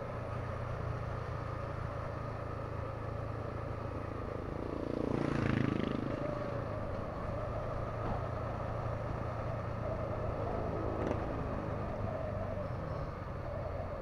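Yamaha MT-15's single-cylinder engine running steadily while riding. It gets briefly louder about five seconds in as another vehicle goes by, and there is a single click near the end.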